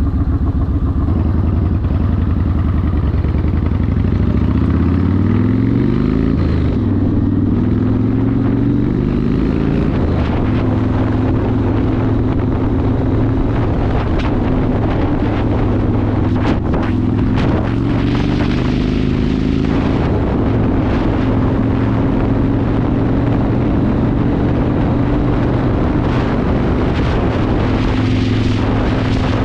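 Yamaha Warrior 1700's air-cooled V-twin with a custom exhaust running near idle, then pulling away. It revs up, drops as it shifts gear, revs up again, and settles into a steady cruise with wind noise.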